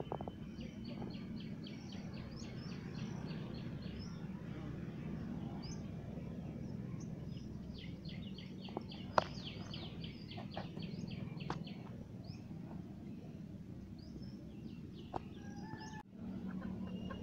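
Birds calling: two long runs of rapid, evenly repeated high chirps, about a second in and again around eight seconds in, over a steady low hum, with one sharp click near the middle.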